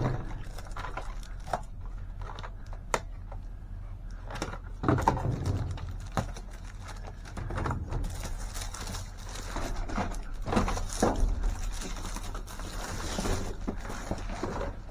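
Boxes, packaging and office supplies being shifted and handled inside a dumpster: scattered knocks, clicks and rustling, with a sharp click about three seconds in and a cluster of heavier knocks around five seconds in.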